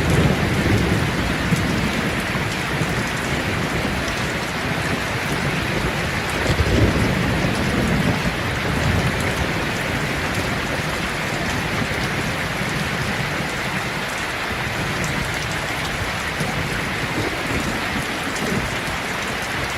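Steady rain falling, with low rolling thunder rumbling near the start and again about a third of the way in.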